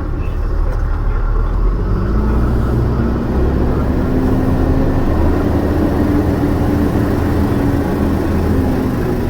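Peterbilt big rig's diesel engine running under way, its pitch rising about two seconds in and then holding steady.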